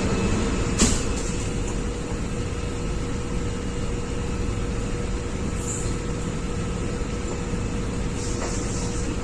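Steady drone of ship's engine-room machinery with a constant hum, and a single sharp metallic click about a second in.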